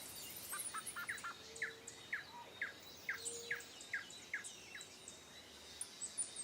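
Forest ambience: a bird repeating short, downward-sweeping chirps about twice a second, with fainter high-pitched chirps from other birds over a quiet hiss.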